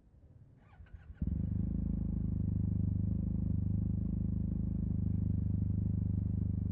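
Yamaha TMAX 560 parallel-twin scooter engine with an Akrapovic carbon full-system exhaust starting up about a second in, after a few faint short chirps, then idling steadily.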